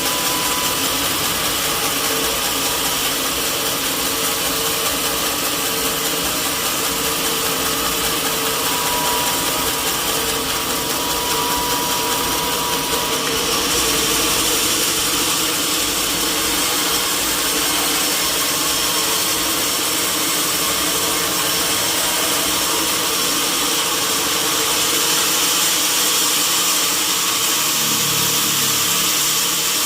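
Sawmill saw running steadily on a mahogany log, a dense machine noise with a steady hum and whine, growing slightly louder about halfway through.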